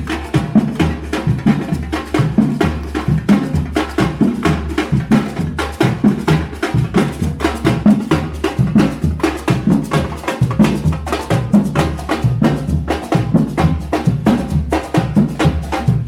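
Fast, steady drumming: many sharp strikes a second over a deep bass beat, part of the festival's parade music.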